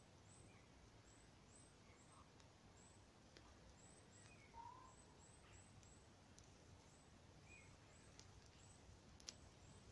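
Near silence in woodland: a few faint, short bird chirps and a few faint ticks over a low hiss, while a dry-grass tinder bundle smoulders.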